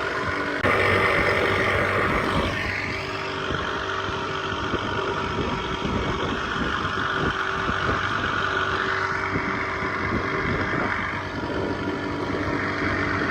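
Motor of a small boat running steadily under way, with a rushing noise over it. The loudness steps up suddenly about half a second in.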